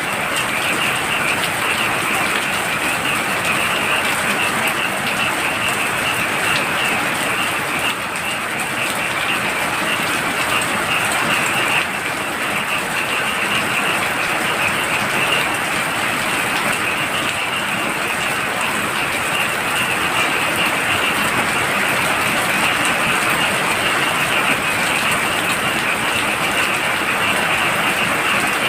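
Heavy rain falling steadily, with a chorus of frogs trilling continuously over it as a high, fast-pulsing drone.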